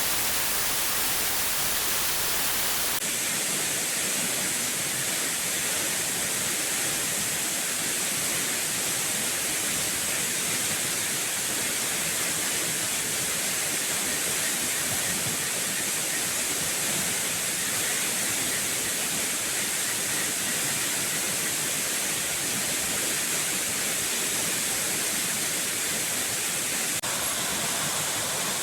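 Steady rush of falling water, an even hiss with no distinct drops or knocks; its tone shifts abruptly about three seconds in.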